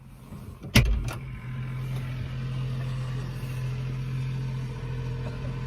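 Tractor cab door latch unlatching: a loud clunk and a second sharp click as the door is opened, followed by a steady low hum.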